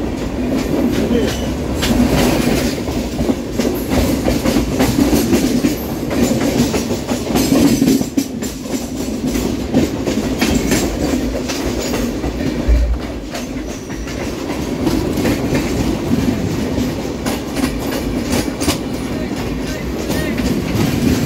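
Train running along the track: a steady rumble, with the wheels clacking over rail joints again and again.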